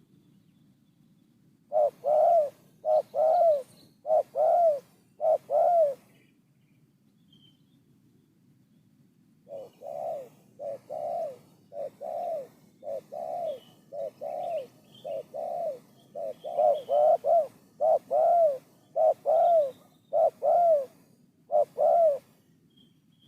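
Spotted dove cooing: repeated low, rounded coo phrases in a short run, then after a pause a longer series that starts quieter and grows louder about two-thirds of the way through.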